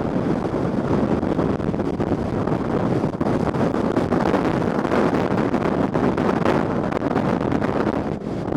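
Strong gusting wind buffeting the microphone: a steady, loud rumble and roar.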